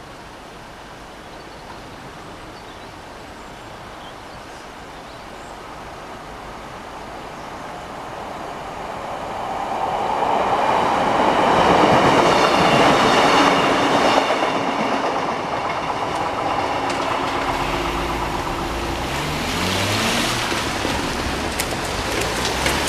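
British Rail Class 150 Sprinter diesel multiple unit passing beneath the bridge. It grows louder over the first ten seconds, is loudest around twelve seconds in, then its diesel engine note rises in pitch in steps as it pulls away.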